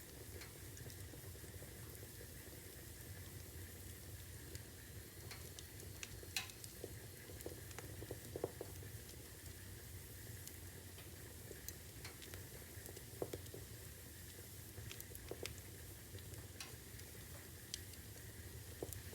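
Logs burning in a fireplace, crackling faintly: a steady low hiss with scattered sharp pops, the loudest about six and eight seconds in.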